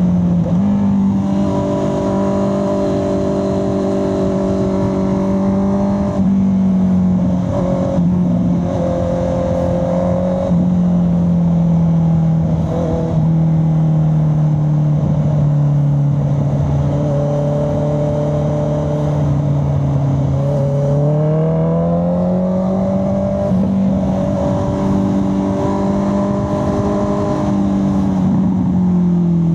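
Honda CB650R's inline-four engine and exhaust running under way at moderate revs, its note shifting with throttle: a few quick steps in the first ten seconds, a slow sag in pitch through the middle, then a smooth climb back up about 21 seconds in and a drop near the end.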